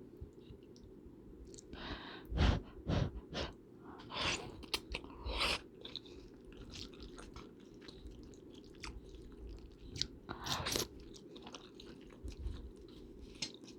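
Close-miked eating: crunchy bites and chewing in a few bursts, over a steady low background noise.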